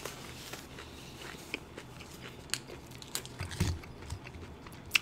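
A person chewing food with the mouth closed, close to a microphone: faint, scattered wet mouth clicks and smacks, with a soft low thump about three and a half seconds in.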